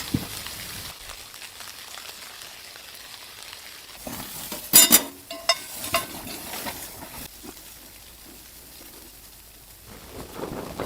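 Steady sizzling hiss with a short cluster of sharp crackles and light clicks about halfway through.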